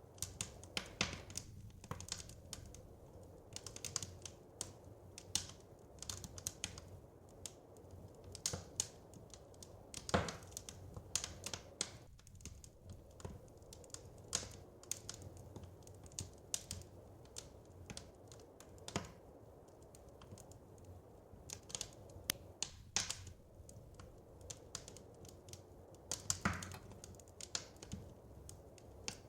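Wood fire crackling in a fireplace: irregular sharp snaps and pops, several a second and uneven in loudness, over a faint low rumble.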